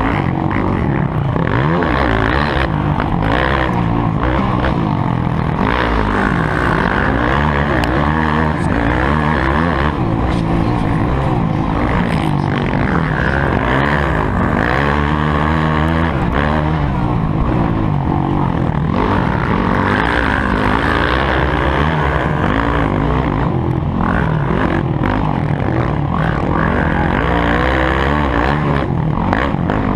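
Motocross bike engine revving hard, its pitch climbing and falling again and again with throttle and gear changes.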